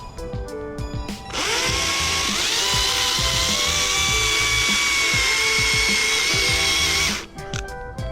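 Stihl MSA 161 T battery chainsaw: its electric motor whines up to speed about a second in, holds steady for about six seconds, then cuts off. Background music plays throughout.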